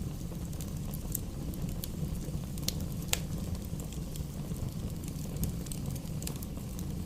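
Bonfire burning with a steady low rumble and scattered crackles and sharp pops from the burning wood, two of them louder about three seconds in.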